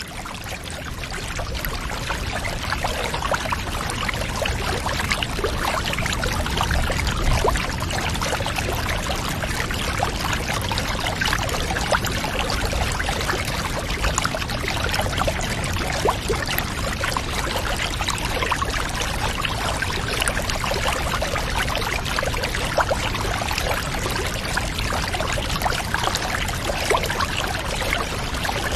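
Water running and trickling steadily, full of small splashes, fading in over the first two seconds.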